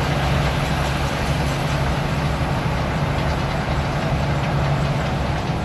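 Semi truck's diesel engine running steadily under way, with road noise from chained tires rolling through slush.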